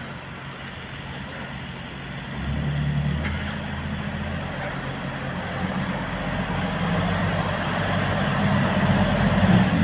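Diesel train engine running as it approaches the level crossing: a low steady engine note comes in a couple of seconds in and grows louder.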